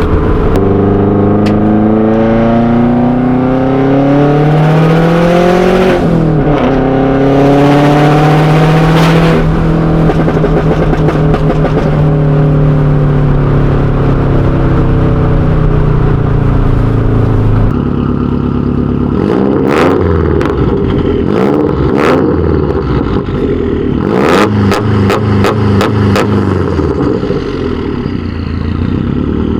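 Turbocharged Subaru WRX flat-four, running a catless Tomei unequal-length header, downpipe and catback exhaust, heard from inside the cabin. It revs up twice through the gears, cruises at a steady pitch, then gives a series of sharp cracks in the second half.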